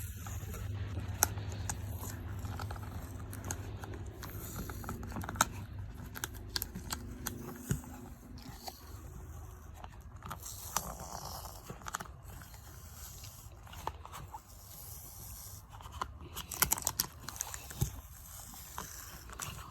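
Handling noise: scattered sharp clicks and short scrapes and rustles, over a low steady hum that fades out about eight seconds in.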